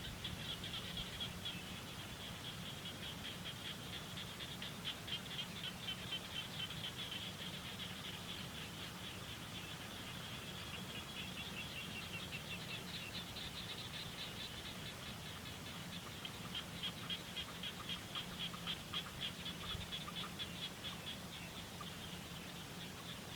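Rapid, high-pitched chirping from small animals, a continuous train of quick pulses that grows stronger for a few seconds around the middle and again later on, over a low steady hum.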